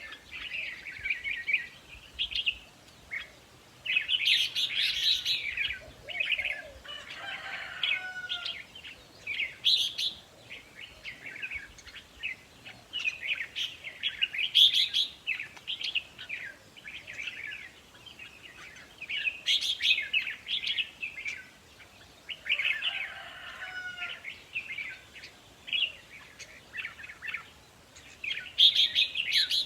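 Red-whiskered bulbul song: bright, chirping phrases repeating every few seconds. This is the decoy song used to stir caged bulbuls into singing.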